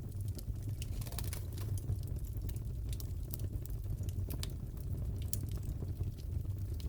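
Crackling fireplace: irregular sharp pops and snaps over a steady low rumble of the burning fire.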